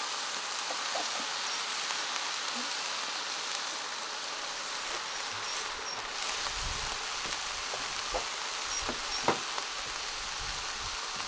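Vegetables and meat sizzling in a wok over a wood fire, a steady hiss with a few sharp pops near the end.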